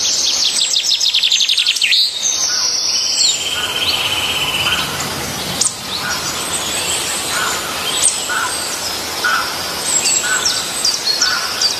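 Several birds singing and chirping together. A rapid run of high notes comes in the first two seconds, a buzzy trill follows a few seconds in, and short lower calls repeat about once a second in the second half.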